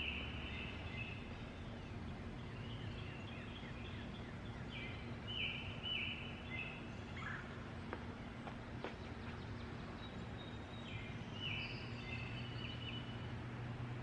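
Wild forest birds calling in bursts of short, quickly repeated high notes: at the start, again about five seconds in, and again near the end. Under them runs a steady low background hum.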